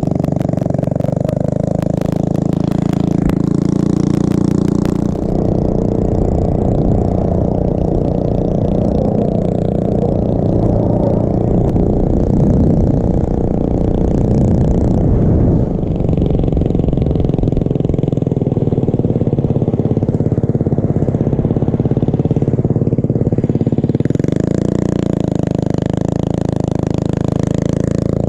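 Small mini bike or pit bike engine running under way, its pitch rising and falling with the throttle, with a rapid ticking over it in the first few seconds.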